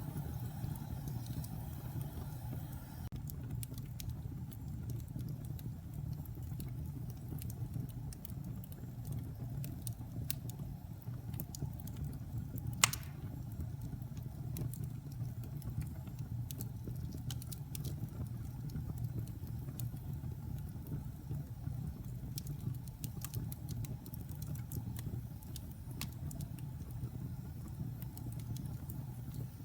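Logs burning in a fireplace: a steady low rumble of flames with scattered small crackles and one sharp pop near the middle.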